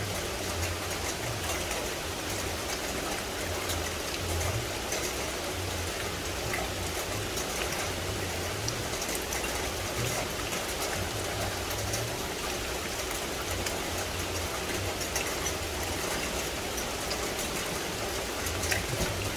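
Steady rain falling in forest, an even hiss dotted with many close raindrop ticks, under a faint low rumble that comes and goes.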